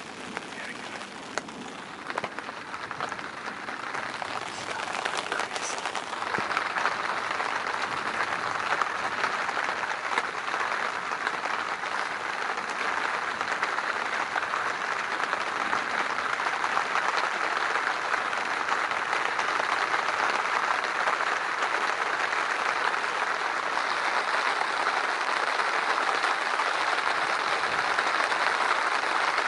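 Heavy rain pouring down in a thunderstorm, a dense steady hiss that builds over the first several seconds and then holds.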